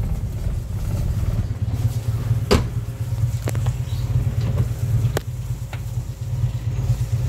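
1996 Toyota Starlet SEG's 1.3-litre EFI four-cylinder engine idling steadily, a low rumble, with a few sharp knocks over it, the loudest about two and a half seconds in.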